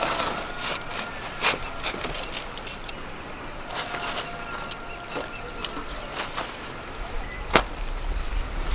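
Insects chirping with a faint high thin tone, over scattered light clicks and knocks; one sharper knock comes about seven and a half seconds in.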